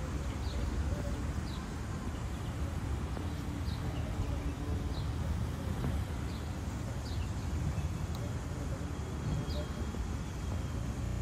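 Outdoor ambience: a steady low rumble, with a bird repeating a short, high, falling chirp about once a second.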